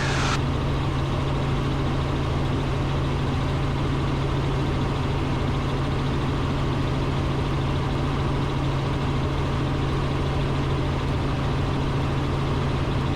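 Robinson R44 Raven II helicopter in cruise flight, heard from the cockpit: steady drone of its six-cylinder Lycoming piston engine and rotors, with a strong low hum under rushing airflow noise.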